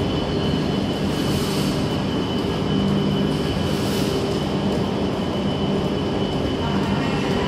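Hayabusa Shinkansen train standing at the platform, its onboard equipment giving a steady low hum and a thin high whine, with two short hisses about a second and a half and four seconds in.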